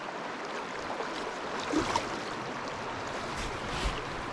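Steady rush of flowing creek water in a trout-stream riffle, with a couple of brief louder sounds about two seconds in and near the end.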